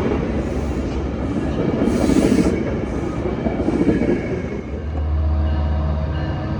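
A passing train: rolling rumble with repeated short clicks and hisses from the wheels, giving way about five seconds in to the steady low drone of a diesel locomotive's engine.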